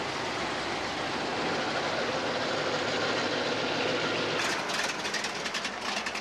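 Modified V8 muscle cars, one with a hood-mounted supercharger, rumbling past at low speed. About four seconds in, a choppy run of sharp crackles joins the engine noise, the level fluttering.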